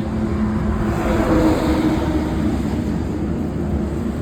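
A motor running steadily with a low, even hum, swelling a little about a second in.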